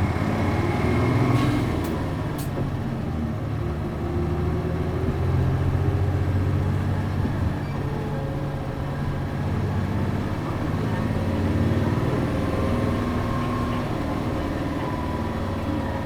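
Mitsubishi Fuso city bus's MD92TJ diesel engine heard from inside the cabin while the bus drives, the engine note rising and falling as it pulls and eases off several times, with a few faint clicks about two seconds in.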